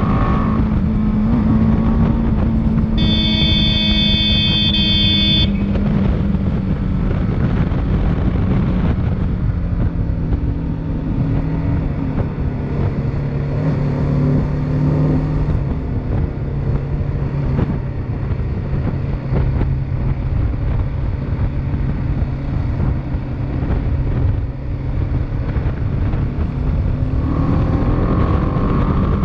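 Motorcycle engine running under way with steady wind and road noise. A loud, steady horn blast sounds about three seconds in and lasts roughly two and a half seconds.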